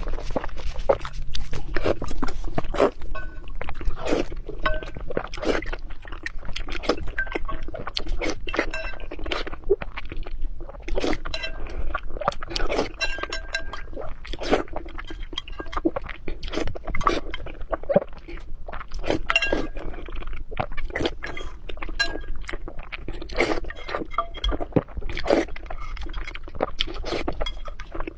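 A pet eating fast and greedily, with quick, irregular crunching and chewing and sharp clinks throughout.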